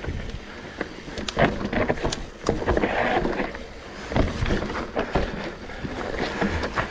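Trek Slash 9.8 full-suspension mountain bike rolling down a dirt singletrack trail: tyres running over dirt and rocks, with frequent sharp knocks and rattles from the bike over bumps.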